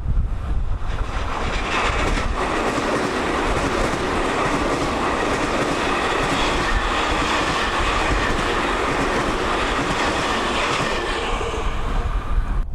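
Tokyu 2020 series electric commuter train passing on the line: a loud, steady rush of wheels and running gear with a hum in it, building over the first two seconds and dying away near the end. Strong wind rumbles on the microphone underneath.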